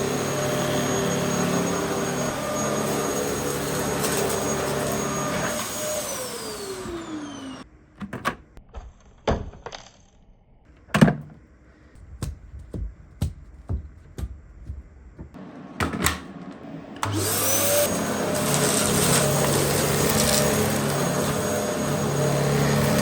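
Dyson DC07 upright vacuum cleaner running with a steady whine, winding down about six seconds in. About ten seconds of scattered clicks and knocks follow. The motor then starts again, its whine rising, and runs steadily.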